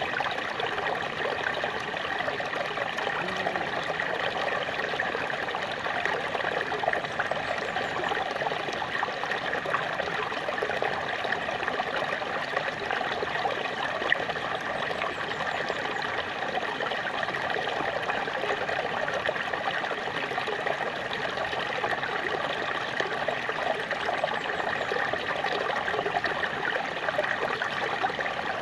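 Small waterfall: water splashing and trickling steadily over rocks, with no break or change.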